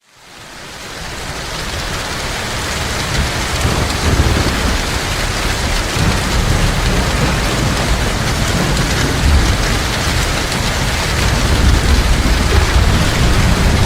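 Heavy rain falling in a steady dense hiss, fading in over the first couple of seconds, with a continuous low rumble underneath.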